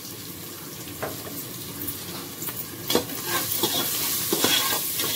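Sliced onions, mint and green chillies sizzling in hot oil in a pressure cooker, frying the tempering for bagara rice, while a perforated metal spatula stirs them with scrapes and knocks against the pot. The sizzle gets louder from about three seconds in, once the stirring gets going.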